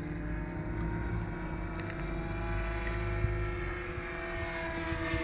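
Hangar 9 Piper Pawnee 40 RC model airplane's motor droning steadily in flight, its pitch easing slightly lower near the end.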